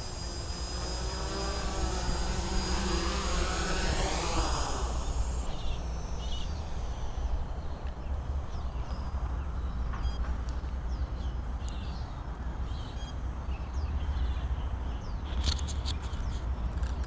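Quadcopter's four brushless outrunner motors and propellers whining with shifting pitch, then stopping about five seconds in. Afterwards wind rumbles on the microphone, with scattered short chirps and a few clicks near the end.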